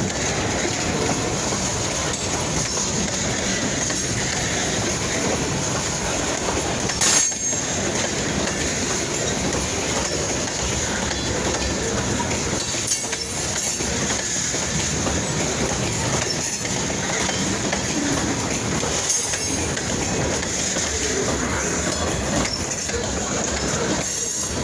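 Freight train cars rolling past on the track, a steady continuous noise with one sharp clank about seven seconds in.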